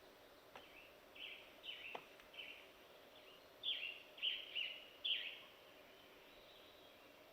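A bird calling: a series of short, falling chirps, growing louder between about three and a half and five seconds in, then stopping.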